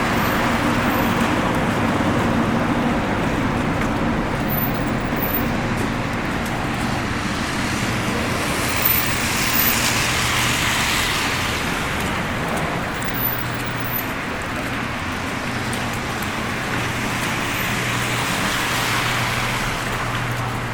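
City road traffic on snowy streets: a steady wash of cars, with a low steady hum underneath and one vehicle passing close and louder about ten seconds in.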